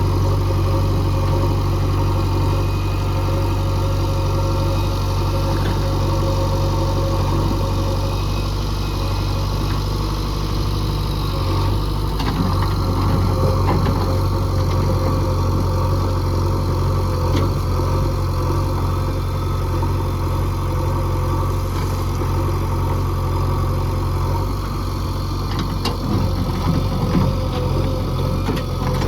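Heavy diesel machine engine running steadily. Its note shifts slightly about twelve seconds in and again near the end, with a few light clicks or knocks near the end.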